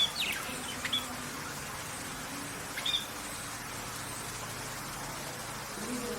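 A small bird chirping: three short high chirps in the first second and another about three seconds in, over a steady background hiss.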